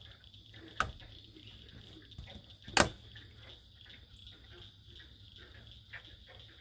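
Faint outdoor ambience after rain: scattered light drips of water, a steady high insect hum, and two sharp clicks, one about a second in and a louder one near three seconds.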